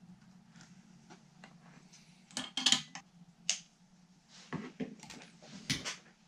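Sharp clicks and light clatter, as of small tools or parts being handled on a workbench, in two clusters: one about two and a half seconds in, another from about four and a half seconds. A steady low hum runs underneath.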